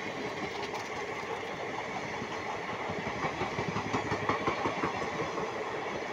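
Passenger express train's coaches rolling slowly past on the rails, with a run of louder irregular knocks about three to five seconds in.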